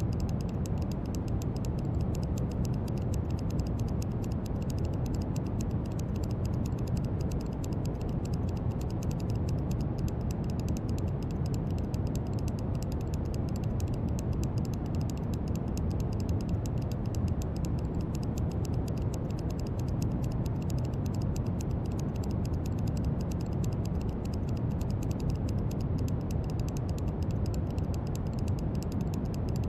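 Steady brown noise: an even, deep rushing hiss, heaviest in the low end and unchanging throughout, with a faint fine crackle in the highs.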